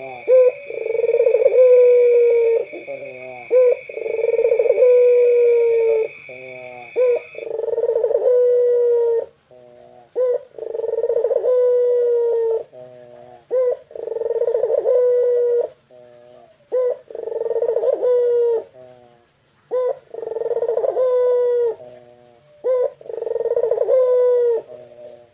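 A puter (Barbary dove) cooing over and over: about ten long, deep coos, roughly one every two seconds, each led by a few short, quick notes. A steady high whine runs underneath and stops about seven seconds in.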